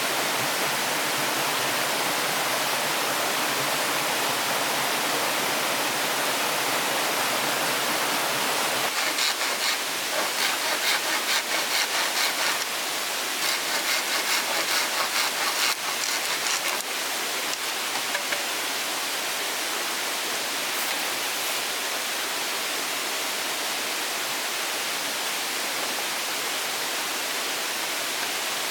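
Steady rushing noise of running water. Midway through come two runs of quick, even strokes, about three a second, each run lasting a few seconds.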